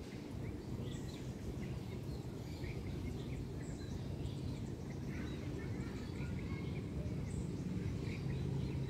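Outdoor ambience: many short bird chirps and calls scattered throughout, over a steady low background rumble.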